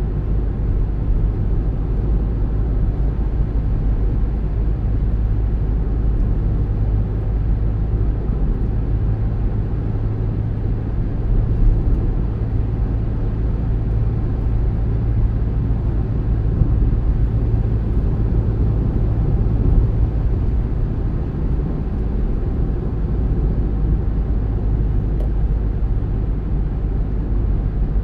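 A car driving at a steady speed: a low, steady rumble of engine and tyres on the road, with a steady hum that fades about two-thirds of the way through.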